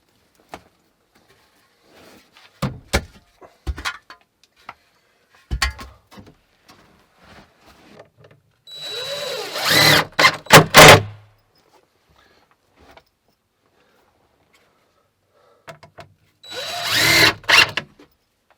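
Power drill running in two short bursts, one about nine seconds in and another near the end, with the pitch rising and falling as the trigger is worked. Before the first burst come several sharp knocks and clicks of tools being handled.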